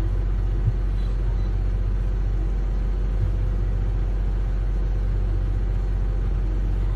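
An engine running steadily: a low, even drone that does not change in pitch, with one brief knock shortly after the start.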